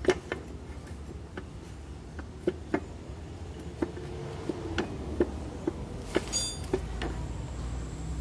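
Irregular light clicks and taps, about a dozen, over a low steady hum, with a brief high squeak about six seconds in.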